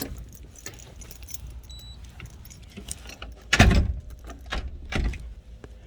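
Keys jangling, with scattered clicks and two heavy thumps, the louder about three and a half seconds in and another about a second and a half later.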